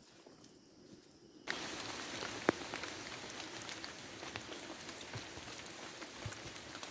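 Steady rain falling, many fine drops in a dense hiss that comes in abruptly about a second and a half in after near quiet, with one sharper drop-like tick a second later.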